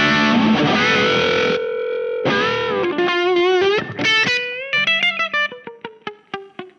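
Electric guitar with humbuckers played through the distortion (Hyde) side of a Visual Sound Jekyll & Hyde V1 pedal, its sharp switch on for a top-end boost. A held distorted chord, then bent lead notes, then a descending run of single picked notes that fades out near the end.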